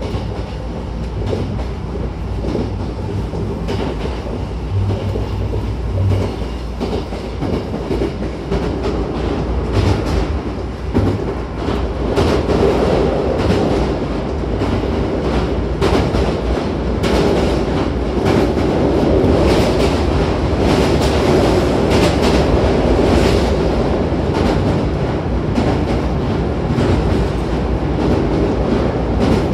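Hankyu 9000 series electric train running at speed, heard from inside the carriage by the doors: a steady rumble with wheels clicking over the rails. The rumble grows louder about twelve seconds in, with clicks coming thick and fast.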